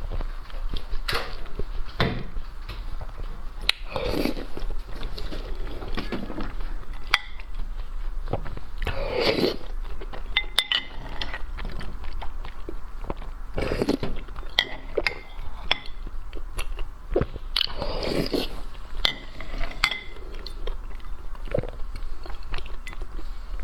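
Close-miked eating of seafood: chewing and biting with crunches and sharp clicks, louder bursts every few seconds, and light clinks of dishes.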